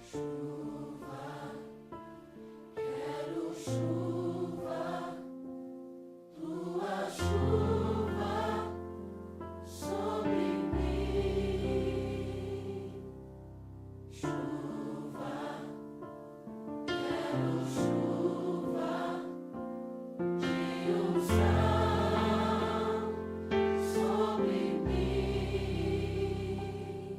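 Christian worship music: a choir singing over long held bass notes, in phrases of a few seconds.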